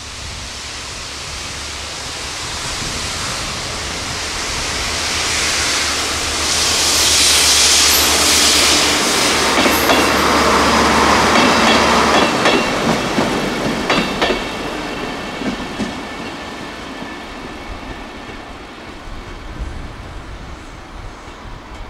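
Network Rail Windhoff multi-purpose vehicle (railhead treatment train) running past: a low diesel drone and wheels clattering over the rail joints. It grows louder to a peak about halfway through, then fades as it draws away.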